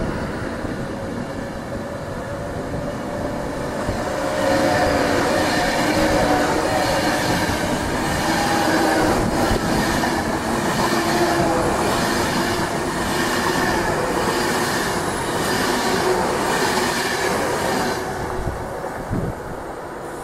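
A train passing, with a steady rumble and wheels clicking rhythmically over the rail joints. It grows louder about four seconds in and fades near the end.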